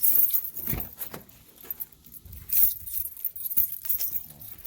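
A bunch of keys jangling and clinking in a hand, with scattered metallic clicks and one dull thump about a second in.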